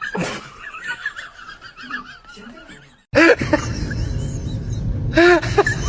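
Animal calls: quick wavering high chirps, then after an abrupt change about three seconds in, short rising-and-falling calls over louder background noise.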